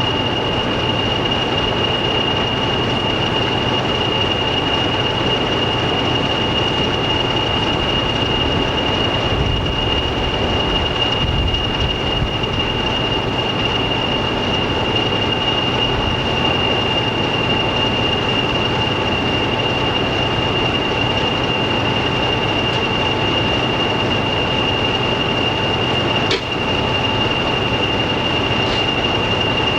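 Diesel train running at a steady speed: an even, unchanging rumble with a steady high whine over it. There is one brief click about 26 seconds in.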